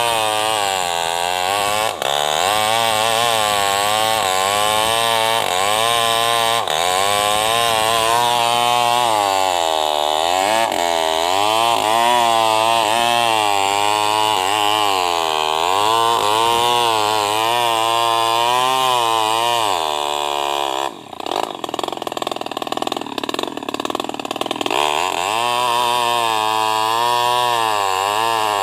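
Small NEW WEST 588 two-stroke chainsaw running under load while ripping a sengon log lengthwise, its engine pitch rising and falling as the bar bites and eases. About 21 seconds in the steady engine note breaks up into a rougher, irregular sound for a few seconds, then picks up again.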